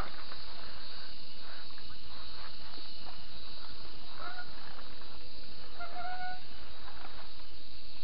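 Steady rumble on a mountain bike's action-camera microphone while riding down a dirt trail, with two faint short calls about four and six seconds in.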